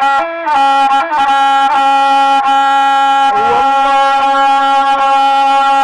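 Rababa, the single-string Bedouin bowed fiddle, playing a slow melody: a few short notes, then one long held note that dips and slides back up about three and a half seconds in.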